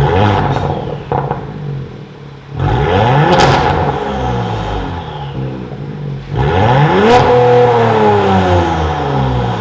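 Genesis G80 Sport 3.5T's twin-turbo V6 exhaust, fitted with a modified mid-pipe and variable valve exhaust, revved three times while standing: near the start, about two and a half seconds in, and about six and a half seconds in. Each rev climbs quickly and falls back slowly to idle, and the last is the loudest.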